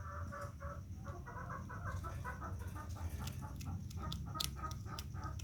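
A bird clucking in rapid short repeated calls, several a second, over a low steady hum; sharp clicks join in during the second half.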